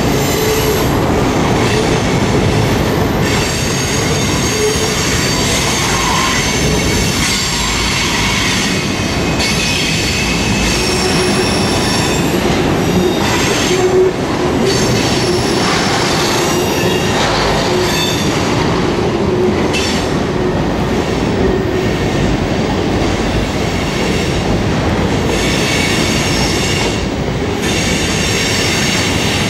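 Freight cars rolling past, their steel wheels squealing against the rails in several high-pitched tones that come and go over a steady rumble and rattle from the wheels and cars.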